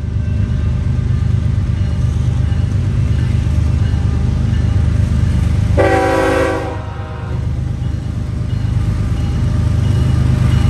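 Diesel freight train running loud and close with a steady low rumble, and a short locomotive horn blast about six seconds in.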